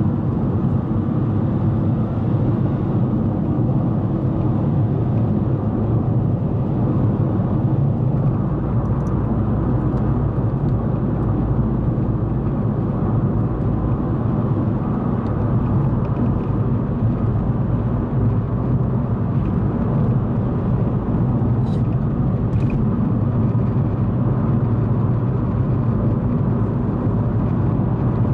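Car driving at a steady speed on a highway, a constant low hum of engine and tyre noise. Two faint ticks come about three-quarters of the way through.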